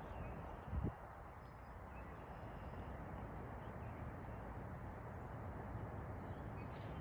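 Steady low outdoor noise with no clear source, with one short low thump about a second in.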